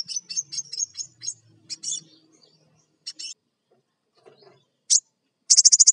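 Crimson sunbird calling excitedly in sharp, high chips. A quick run of about eight a second comes first, then scattered single chips, then a fast burst of chips near the end.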